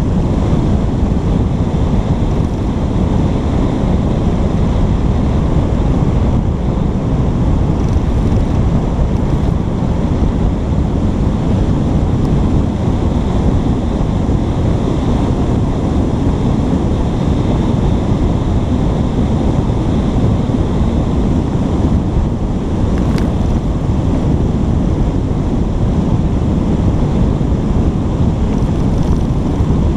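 Steady low rumble of wind buffeting a GoPro's microphone, loud and unbroken throughout.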